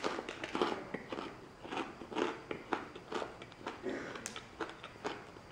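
Close-up chewing of a Cadbury Crunchie bar: a run of irregular crisp crunches as the honeycomb toffee and chocolate are bitten and chewed in the mouth.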